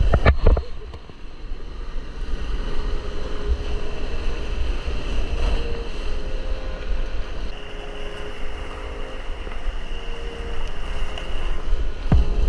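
Fast whitewater rushing in a high-running mountain creek, with wind buffeting the microphone as a heavy low rumble.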